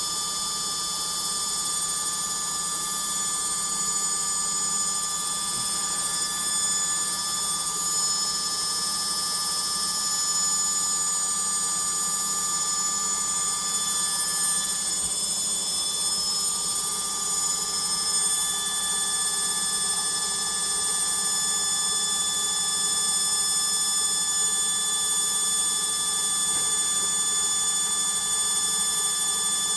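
Logik washing machine in its final spin, the drum turning at high speed with a steady, high-pitched motor whine.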